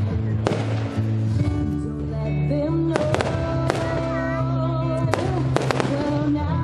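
Fireworks shells bursting with sharp bangs over music played in time with the show: one bang about half a second in, then a run of them from about three seconds on.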